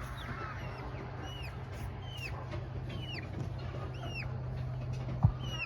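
Young chicks peeping: short, high chirps that fall in pitch, repeated over and over at an uneven pace. A steady low hum runs underneath, and a single knock sounds near the end.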